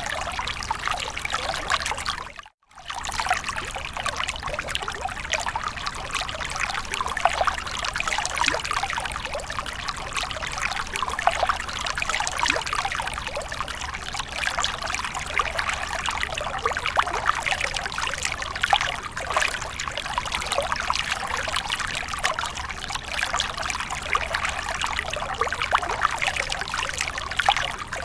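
Water running and splashing steadily, a dense patter of many small splashes. The sound cuts out for a moment about two and a half seconds in, then carries on as before.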